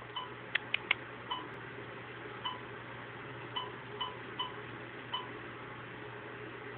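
Short, faint chime-like pings at irregular intervals, roughly once a second, with a few light clicks near the start, over a steady low hum.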